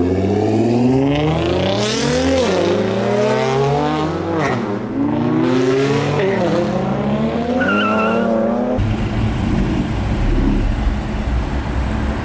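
A car's engine accelerating hard and shifting up through the gears: the engine pitch climbs, drops back at each of about three shifts, and climbs again, with a short high squeak near eight seconds in. About nine seconds in, the engine sound gives way to a steady rumbling noise.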